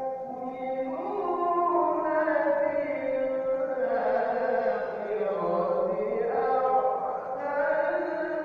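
Melodic Quran recitation (tilawah) by a qari: a voice holding long, wavering notes that slide up and down in pitch.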